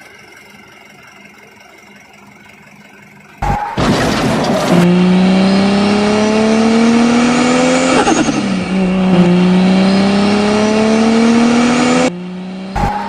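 Faint steady hum, then a car engine revving sound starts abruptly about three and a half seconds in. Its pitch climbs steadily, drops once about eight seconds in like a gear change, climbs again, and cuts off suddenly near the end.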